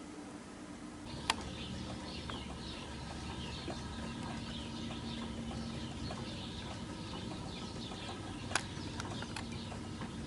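Small birds chirping and twittering continuously, starting about a second in, with two sharp clicks, one just after the chirping starts and one near the end.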